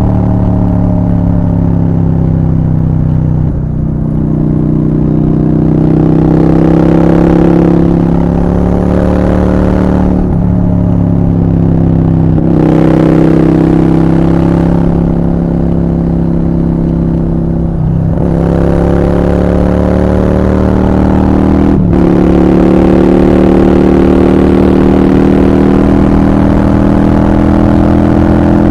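Honda Shadow 750 V-twin running through a Black Widow aftermarket exhaust while being ridden hard. The engine note climbs and then drops back at each of several gear changes.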